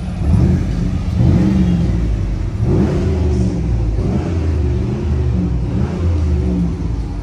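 A hot rod's engine revving and accelerating, its pitch climbing and dropping back several times.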